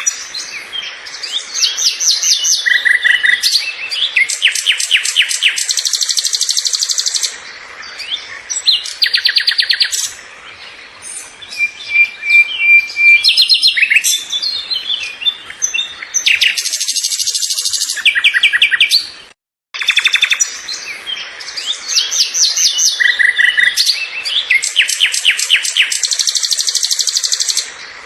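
Small songbirds singing: rapid high trills and chirping phrases, one after another, with a brief gap about two-thirds of the way through.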